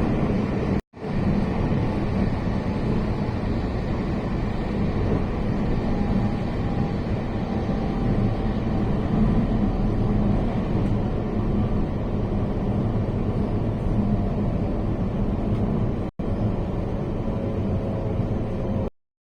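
Steady rumbling running noise of a moving train heard inside the carriage. It breaks off for an instant twice, about a second in and near the end, then cuts off just before the end.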